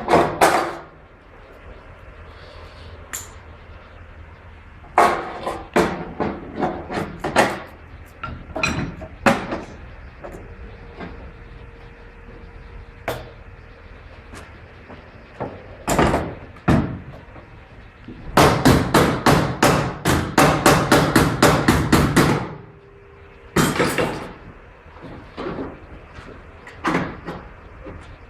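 Hammer blows. Scattered single strikes come first, then a fast run of about sixteen strikes at roughly four a second for about four seconds, then a few more strikes.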